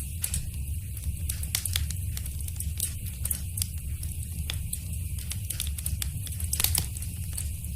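Wood fire in a fireplace crackling, with many small irregular pops over a steady low rumble, and one louder pop near the end.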